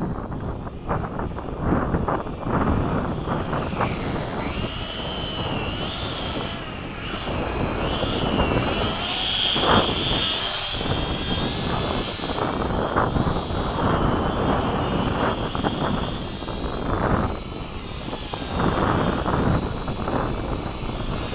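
Electric motors and propellers of a small RC model B-17 whining in flight, the high pitch wavering up and down as it manoeuvres, with gusty wind rumbling on the microphone.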